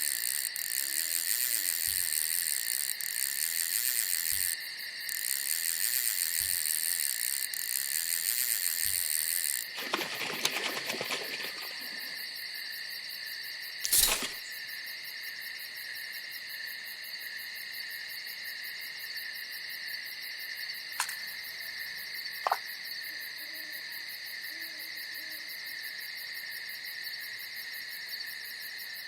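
Night chorus of crickets and other insects trilling steadily in high, fast pulses; a louder, denser layer of the chorus drops out about a third of the way in. A single sharp knock about halfway through, and two small clicks later.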